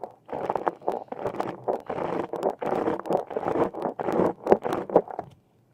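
Close-miked scraping and rustling of handled objects in a quick irregular run, with a few sharp taps near the end.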